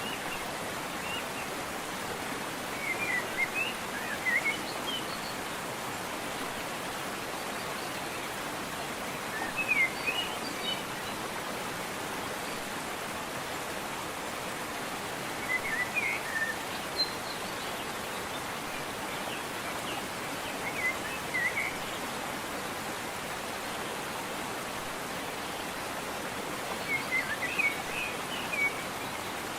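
Steady rushing of a waterfall, with a bird singing short chirping phrases about every five or six seconds.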